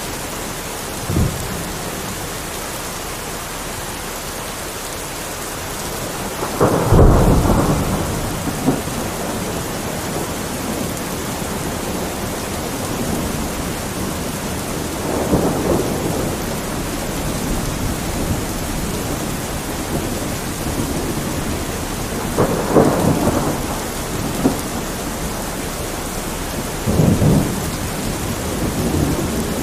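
Heavy rain falling steadily, with several rolls of thunder rumbling through it; the loudest roll comes about seven seconds in.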